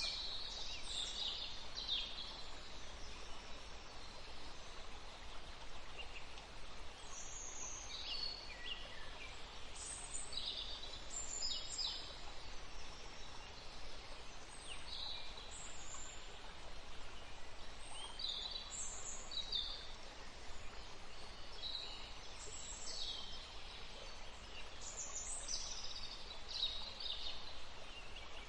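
Small songbirds chirping and trilling in short, high-pitched phrases every second or two, over a steady background hiss.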